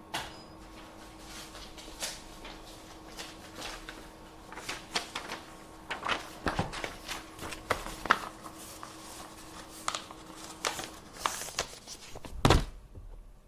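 Office desk handling sounds: a run of small clicks, taps and knocks, over a faint steady machine hum that stops about eleven seconds in. A heavy thump comes near the end.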